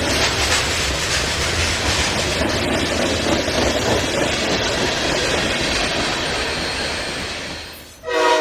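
Freight train rolling by: a loud, steady noise of wheels on rails that fades in the last second. A train horn starts sounding right at the end.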